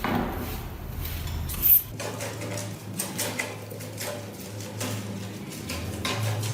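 Metal parts of a rusty manual meat grinder being handled and worked on: irregular clinks and scraping strokes, with one sharp metallic clink about two seconds in.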